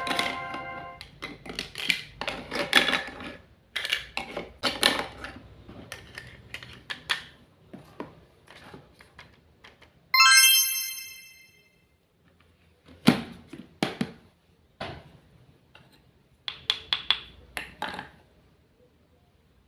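Small clicks, taps and knocks from a mini toy kitchen set and its utensils being handled, with one bright ringing chime about ten seconds in that dies away.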